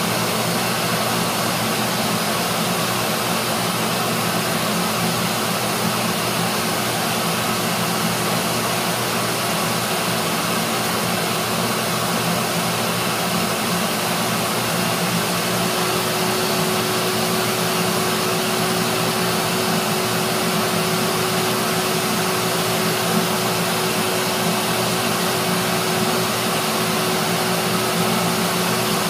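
Small hobby heat gun, of the kind made for shrinking model-airplane covering film, running steadily: an even blowing whir with a faint steady hum under it.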